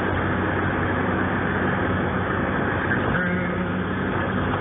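Car heard from inside the cabin while driving: steady engine hum under even road and tyre noise.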